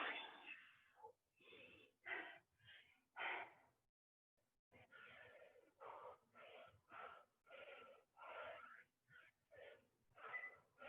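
A person breathing hard and fast through an all-out exercise interval: faint, quick, wheezing breaths, coming about twice a second in the second half.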